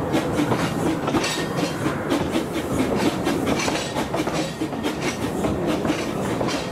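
Talyllyn Railway narrow-gauge train running along the track, heard from an open coach window: a steady rumble from the wheels and coaches with a continual irregular clatter and clicking.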